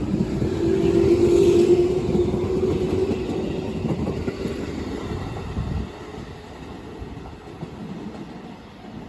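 JR 211 series electric multiple unit pulling away from a station: a hum with a single tone that climbs slightly in pitch over wheel and track rumble. The sound fades sharply about six seconds in as the train draws off.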